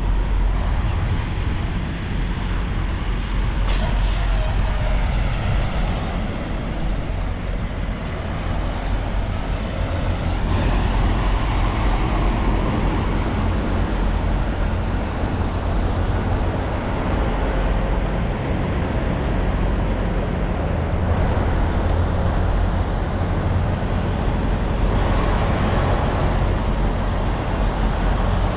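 Steady rumble of idling and passing diesel trucks with traffic noise, and one brief sharp hiss about four seconds in.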